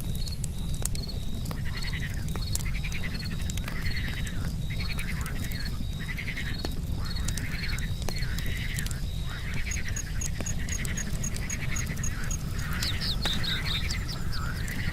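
Frogs croaking over and over, about one call a second. A regular high chirp of an insect such as a cricket runs under them and stops about two-thirds of the way through, and the sharp pops of a wood campfire crackle throughout.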